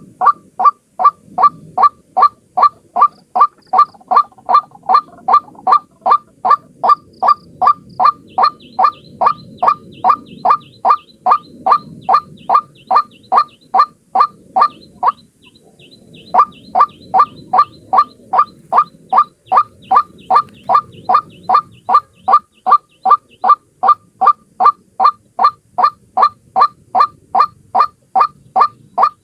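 White-breasted waterhen (ruak-ruak) calling, a single bird's lure call: one harsh note repeated evenly about three times a second, with a short break a little past the middle before it resumes.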